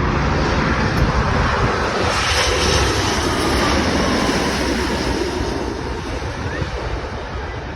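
Jet engines of a Boeing 787 airliner passing overhead: a steady roar with a faint whine that slowly falls in pitch, fading near the end.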